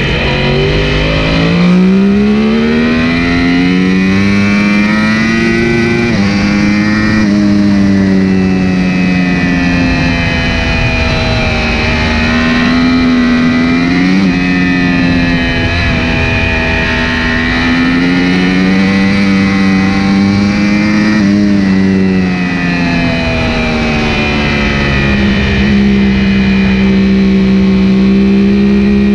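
Yamaha YZF-R1's inline-four engine under hard riding, heard close from a camera on the bike: the pitch climbs, drops sharply at a shift or throttle change three times, and climbs again.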